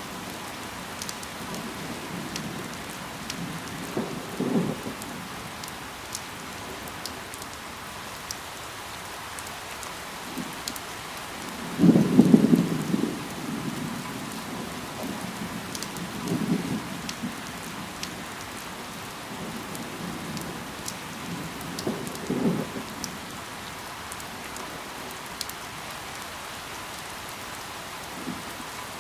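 Steady rain with scattered fine drop ticks. Several short, low rumbling bursts break through it, the loudest about twelve seconds in.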